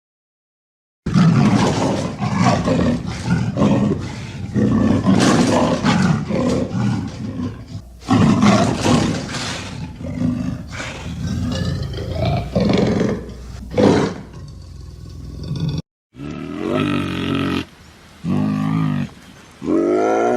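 Lion roaring and growling in a run of rough, loud roars lasting about fifteen seconds. It starts after a second of silence and cuts off abruptly, followed by a few shorter pitched calls near the end.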